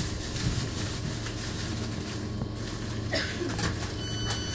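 Inside a train halted at a platform: a steady low hum runs throughout, and about four seconds in a high electronic beeping starts, the door alert sounding as the doors are released.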